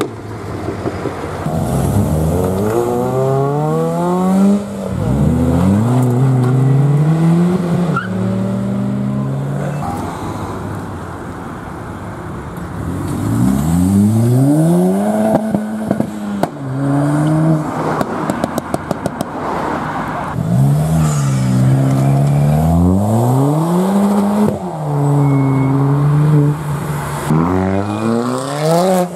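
Ford Fiesta ST engines accelerating hard several times, each note rising in pitch and dropping back at the upshifts, with a short rapid run of sharp cracks about two-thirds of the way through.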